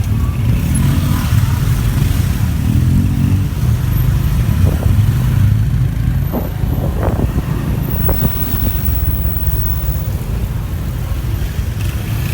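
Motorbike ride through city traffic: the engine and road noise make a steady low rumble, with a few brief higher tones in the middle.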